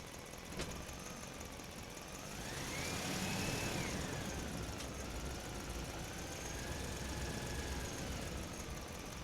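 A tractor's motor running, its whine climbing about two seconds in and easing back down and wavering after. A sharp click about half a second in.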